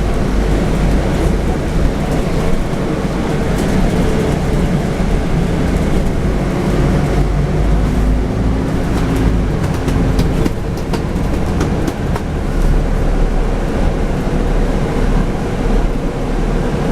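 Scania N250UD double-decker bus under way: its five-cylinder diesel engine and drivetrain running with a steady low rumble, mixed with road noise and light clicks and rattles from the body. A higher tone rises briefly out of the rumble about eight seconds in.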